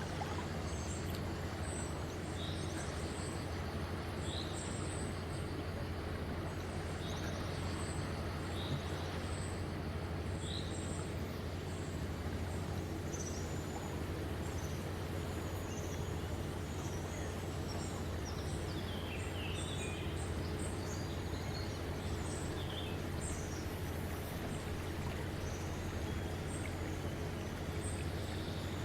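Birds chirping over a steady background of outdoor noise with a low hum. For the first ten seconds one bird repeats a short high chirp about every second and a half; after that, several short, higher calls come irregularly.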